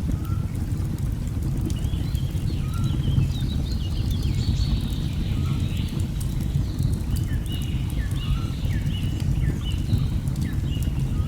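A steady low rush of water with many short bird chirps and falling whistles over it, and light crackles from a burning wood fire.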